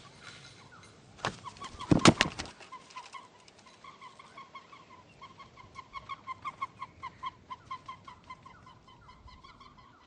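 Birds at a feeder: two sharp knocks in the first couple of seconds, then a long run of quick, short, repeated notes, about four or five a second, swelling in the middle and fading near the end.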